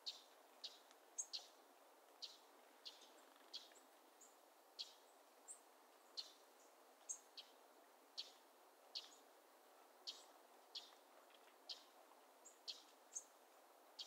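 Songbirds giving short, sharp, high-pitched chip calls, irregularly about one or two a second, over a faint steady background hiss.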